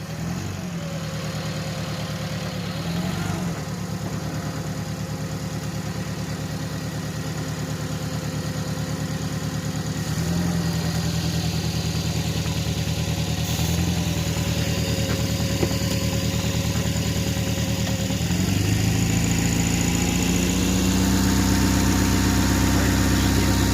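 Car engine idling steadily, with a thin whine riding over it. The engine picks up a little about ten seconds in and again near the end, and the whine rises in pitch with it.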